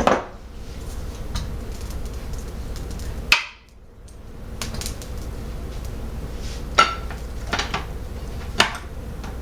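Kitchen utensils and cookware clinking and knocking against an Emile Henry ceramic tagine base while food goes into the hot pan. There is one sharp clink at the start and another about three seconds in, followed by a brief dip in level. Three more clinks come about a second apart near the end.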